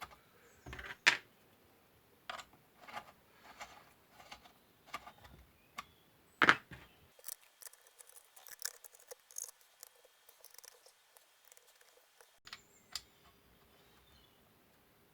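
Plastic and metal chainsaw parts clicking and knocking as they are handled and fitted, with two sharper knocks about a second in and again midway, then a run of fine, light ticks.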